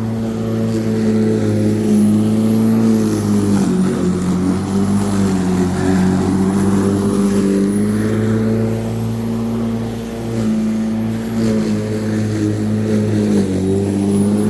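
Black & Decker 42 cm 1800 W electric lawnmower running steadily as it cuts rough, long grass. Its motor pitch dips briefly under load a few times.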